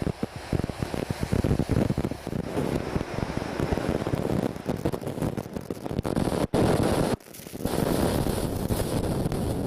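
Typhoon wind gusting and buffeting the microphone over a steady rushing noise. The sound drops out briefly twice, a little past the middle.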